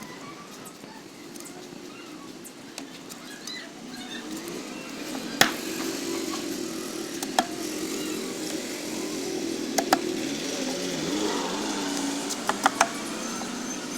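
A motor drone, wavering in pitch, with several sharp clicks or knocks: single ones about five and seven seconds in, then pairs near ten seconds and near the end.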